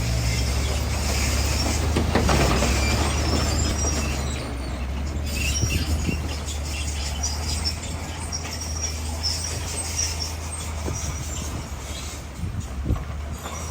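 Crawler bulldozer's diesel engine running steadily under load, with high squealing from its steel tracks and stone grinding as it spreads rock.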